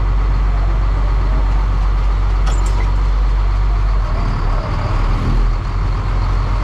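Tractor engine running steadily and loud, with a short click about two and a half seconds in and a less even stretch a little after four seconds.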